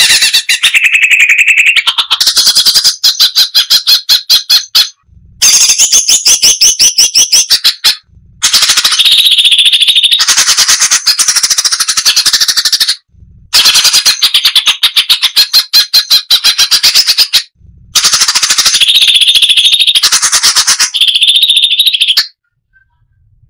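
Cucak cungkok (striated bulbul) singing loud, dense phrases of rapid repeated notes, each phrase a few seconds long, broken by short pauses.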